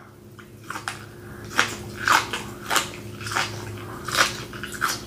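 Close-miked chewing of a mouthful of cooked asparagus spears, a short wet chew sound roughly every half second, starting a little over a second in.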